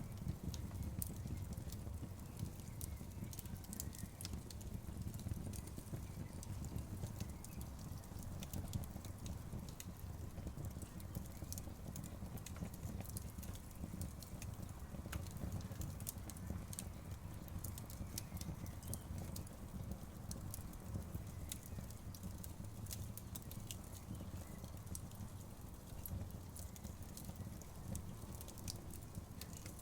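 Outdoor bonfire crackling: frequent small sharp pops and snaps from the burning wood over a steady low rumble of the flames.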